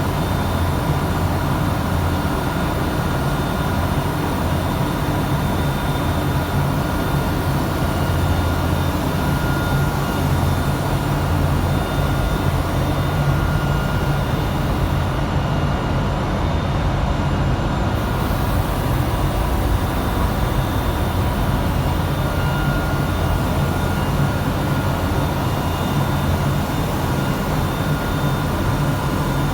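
Grinding machine running steadily while it grinds a MAN B&W exhaust valve spindle: a continuous low motor hum under an even grinding hiss, with faint high steady whines.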